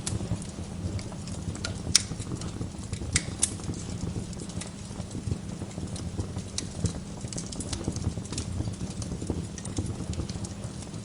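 Wood fire crackling in a fireplace: a steady low rumble of the flames with scattered sharp pops, the loudest about two seconds in and another about three and a half seconds in.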